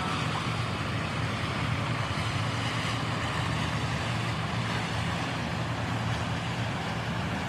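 Steady vehicle engine noise with a constant low hum.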